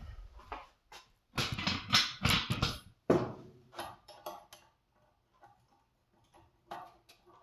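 Scissors and a scissor sharpener being handled: a quick cluster of metallic clicks and knocks, then one harder knock with a short ring, followed by a few lighter taps.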